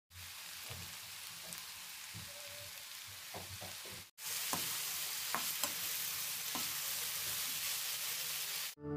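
Chicken with potato, carrot and peas sizzling in a frying pan, with a metal spatula now and then scraping and knocking against the pan as it stirs. The sizzle cuts off briefly about four seconds in and comes back louder.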